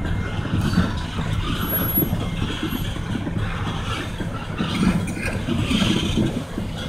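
Oil train rolling through a road crossing: a steady low rumble of passing freight cars, with irregular swells.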